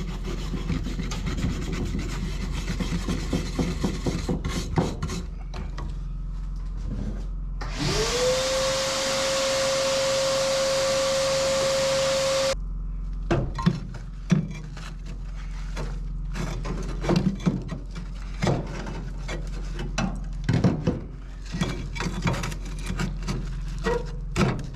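Tool work: rubbing and scraping with scattered knocks, and in the middle a power tool spinning up to speed, running steadily for about five seconds and cutting off suddenly.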